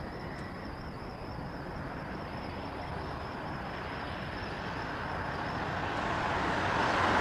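Steady rushing noise of a four-engine Airbus A380 jet airliner coming in to land in strong crosswind, mixed with wind; it grows louder over the last couple of seconds.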